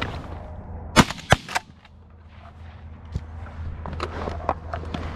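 Shotgun blasts from goose hunters firing at geese: two loud shots about a second in, a third, weaker one just after, all within about half a second.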